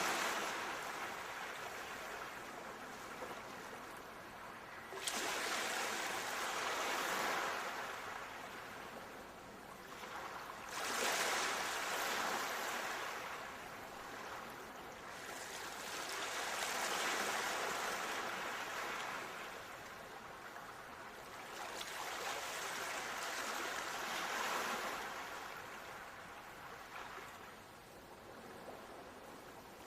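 Ocean waves breaking and washing up a shore, a fresh wave surging in every five or six seconds and draining away between.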